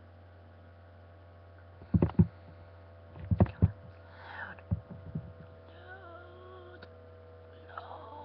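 Steady electrical hum with a run of loud, low thumps between about two and five seconds in, and a faint voice after that.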